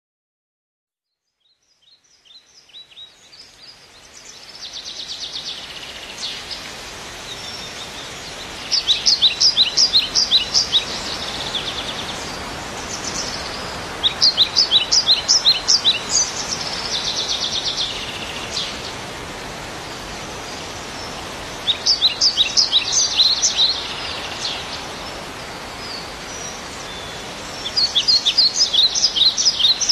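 A small bird singing phrases of rapid, high chirps, each phrase about two seconds long, repeated every several seconds over a steady background hiss. The sound fades in over the first few seconds.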